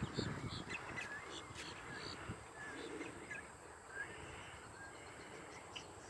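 Scattered short, faint bird chirps over a low background hiss, thinning out after about four seconds.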